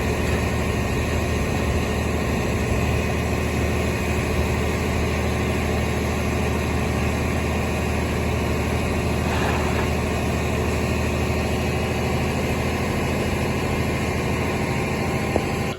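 Fire truck engine running steadily at idle, a low, even drone that cuts off suddenly at the end.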